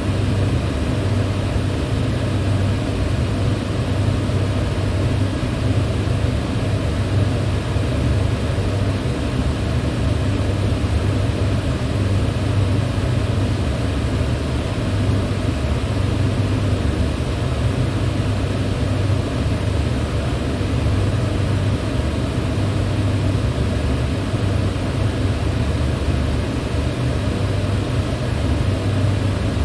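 Electric fan running steadily: a constant airy hum, heaviest low down, that does not change.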